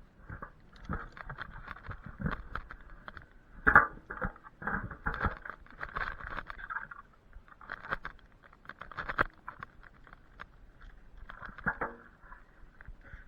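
Irregular rustling and crackling, with one sharp crack about four seconds in.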